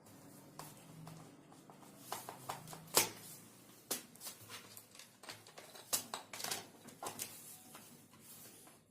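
Irregular plastic clicks and taps as a laptop's bottom cover panel is fitted and handled, with a sharper knock about three seconds in.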